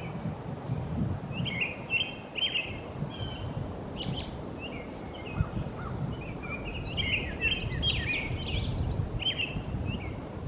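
Songbirds chirping: many short, quick notes in clusters, over a steady low rumble of background noise.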